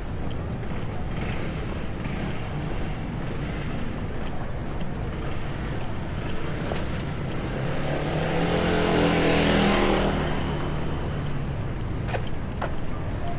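Steady city street traffic rumble, with a motor vehicle's engine passing close, swelling and fading away about eight to ten seconds in.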